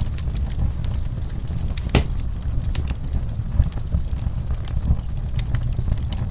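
Wood fire crackling in a fireplace: frequent sharp pops and snaps, with one louder pop about two seconds in, over a steady low rumble.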